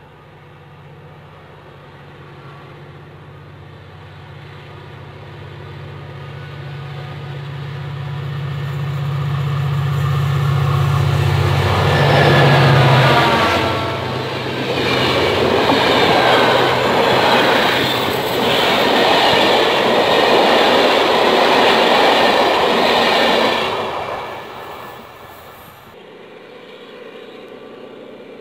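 Diesel-hauled train passing by. The locomotive's engine drone grows louder for about twelve seconds and peaks with a falling pitch as it goes past. The wagons' wheels then rumble and clatter for about ten seconds before the sound fades away.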